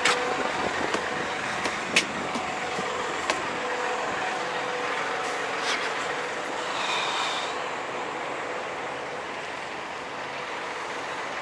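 Steady mechanical hum with a faint constant tone. It is broken by a few sharp clicks and a brief high squeal about seven seconds in.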